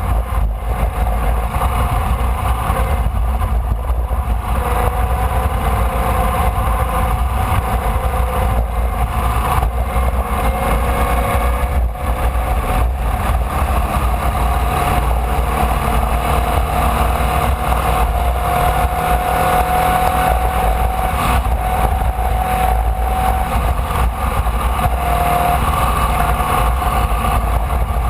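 Formula Vee race car's air-cooled Volkswagen flat-four engine running hard under load, heard onboard, its pitch climbing slowly through a long pull and dipping briefly near the end. A heavy low rumble of wind buffeting the microphone runs underneath.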